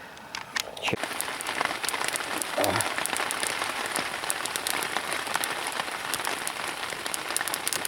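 Log campfire crackling, with a dense run of small snaps and pops over a steady hiss of burning.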